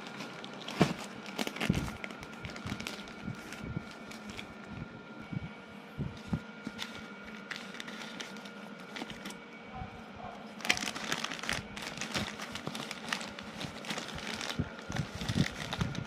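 Crinkling and rustling of something being handled, with scattered knocks and clicks and a denser run of crackling about ten to twelve seconds in.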